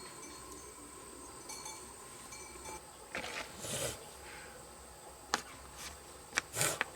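Steady high drone of insects, crickets or cicadas, with a handful of short knocks and scrapes in the second half.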